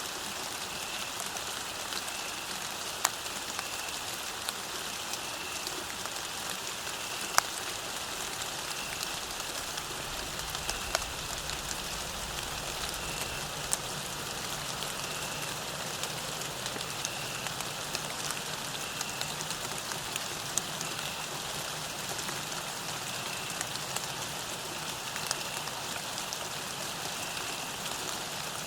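Steady rain falling, with scattered louder drops striking now and then. A faint, short high note repeats about every second and a half.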